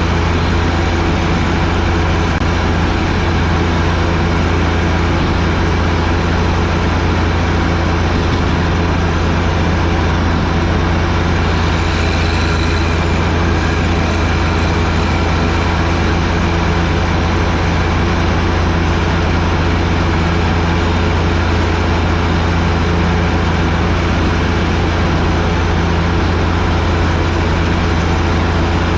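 John Deere 1025R sub-compact tractor's three-cylinder diesel engine running steadily under load, driving a 47-inch front-mounted snowblower.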